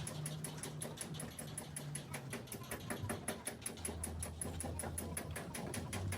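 Rapid, even mechanical clicking, several clicks a second, over a low hum.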